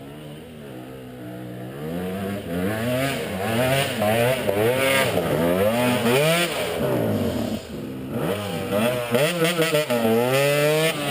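Enduro dirt bike engine revving, its pitch rising and falling again and again, with a brief drop about eight seconds in before it revs up once more.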